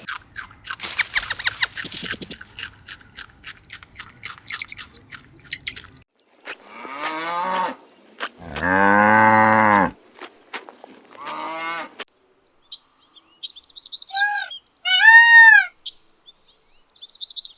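A run of separate animal calls, one after another: rapid clicking chirps first, then a cow mooing in one long call about eight seconds in, with shorter calls around it, and high arching chirps near the end.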